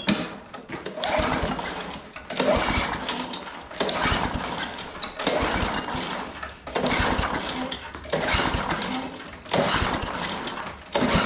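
Walk-behind lawn mower's small engine being pull-started over and over: about eight pulls, roughly one every second and a half, each turning the engine over without it catching. It is close to firing after two primes.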